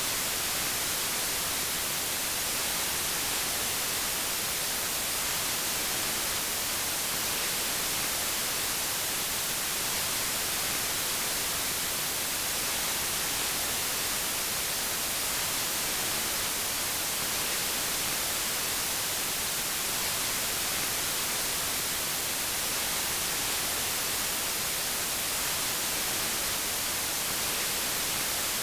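Steady white noise: an even, unbroken hiss, brightest in the high end, that does not change.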